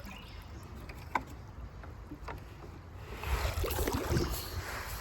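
Water splashing and sloshing as a bucket is dipped and filled, with a louder swell of splashing about three seconds in and a few small knocks before it.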